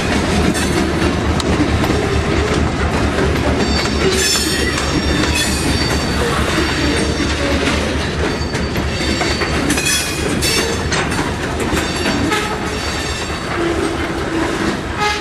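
EMD 645 diesel locomotive prime mover running under a steady low throb as the locomotive rolls. There are high wheel squeals about four and about ten seconds in.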